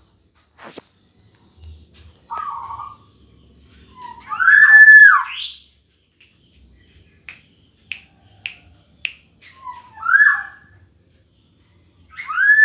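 Black-naped oriole (kepodang emas) singing: loud fluty whistled phrases that rise and fall, one about four seconds in, another around ten seconds and a third near the end, with a lower call early on and four short sharp notes in quick succession midway.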